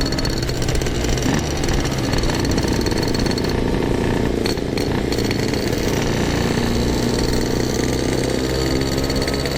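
Yamaha RX-King 135cc two-stroke single-cylinder motorcycle engine running at light throttle, a steady rapid rattling exhaust note with small shifts in pitch.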